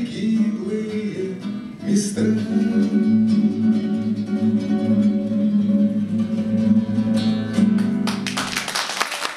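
Acoustic six-string guitar and a man's voice ending a song: a last sung phrase, then a long held final note and chord. About eight seconds in, the audience starts clapping.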